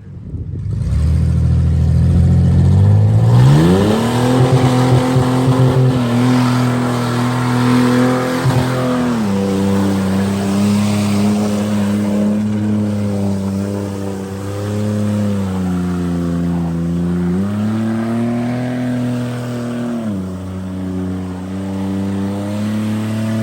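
Car engine revved up about three seconds in and held at high revs, its pitch dipping and climbing back a couple of times, with a hiss through the middle stretch.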